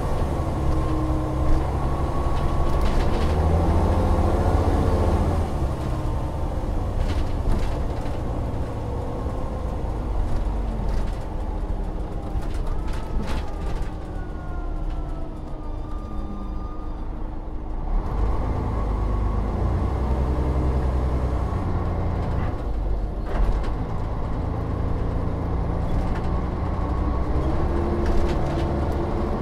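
Volvo Olympian double-decker bus under way, its engine pulling and rising in pitch, then dropping about five seconds in. A quieter stretch with a thin rising whine follows, and the engine pulls strongly again about two-thirds of the way through.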